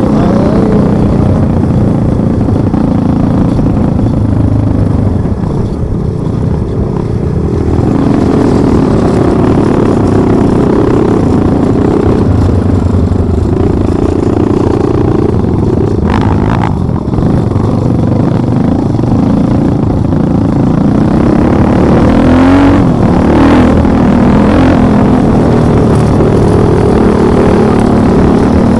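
Motor vehicle engine running under way, its pitch rising and falling as the throttle changes, with a few brief knocks and clatters from the rough ride over the trail.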